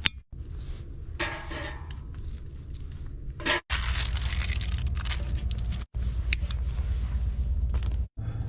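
Scrapes, rustles and knocks of a small homemade stove being loaded with lumps of coal and solid alcohol fuel to light it, over a steady low hum.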